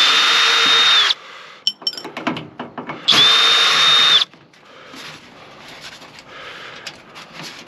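Power drill running in two bursts of about a second each, backing screws out of a microwave oven's metal casing, followed by faint clicks and rattles of handling.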